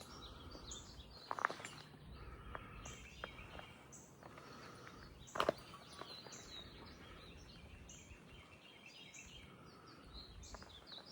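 Birds chirping and singing over a quiet outdoor background, short high calls repeating throughout. Two footsteps or scuffs, one about a second and a half in and a louder one about five and a half seconds in.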